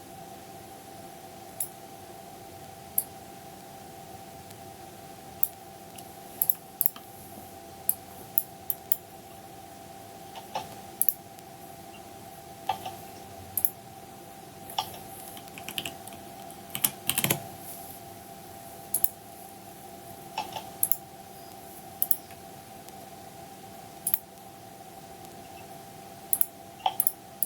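Computer keyboard keys being pressed in sparse, irregular clicks, about one or two a second, over a steady low hum.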